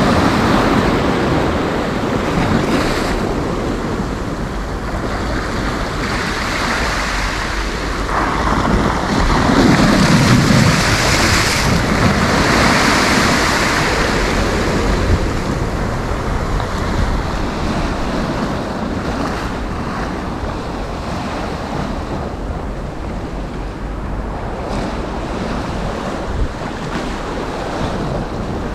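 Sea waves breaking and washing up the beach, with wind rumbling on the microphone. The surf swells louder about ten seconds in, then eases off.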